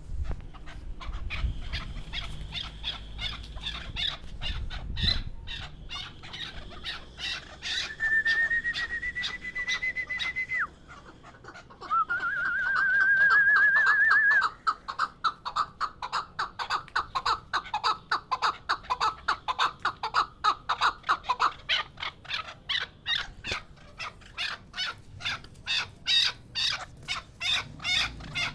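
Chukar partridge calling: a long run of quick, repeated clucking notes, two or three a second. Twice in the middle comes a sustained wavering whistle lasting a couple of seconds, the second one the loudest sound.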